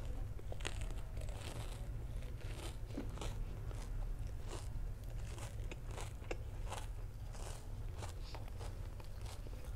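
Chewing a mouthful of deep-fried sausage with a crispy cereal-crumb coating: irregular crackly crunches, several a second, over a low steady hum.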